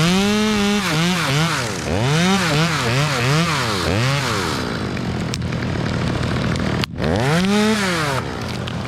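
Chainsaw revving up and down in a string of quick throttle blips, then running lower and rougher, with one more rev and drop near the end.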